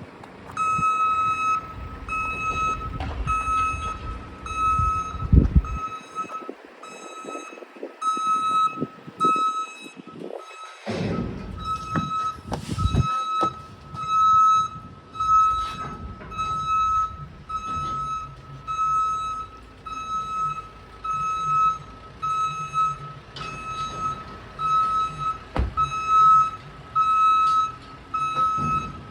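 A heavy truck's reversing alarm beeping in an even on-off rhythm, with the diesel engine running underneath.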